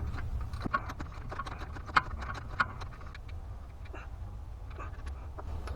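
Irregular metallic clicks and taps of hand tools working at a bolt, with two sharper knocks about two seconds in, over a steady low hum.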